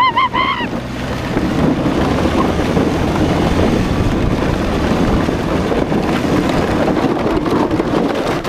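Plastic wheels of a Power Wheels ride-on toy rolling fast over rough ground with wind buffeting the microphone, a steady rumbling rush. A brief wavering yell at the very start.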